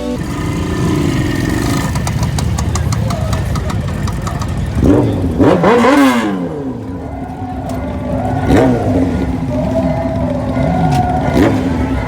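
A vehicle engine being revved repeatedly, its pitch climbing and falling back several times; the biggest rev comes about five to six seconds in.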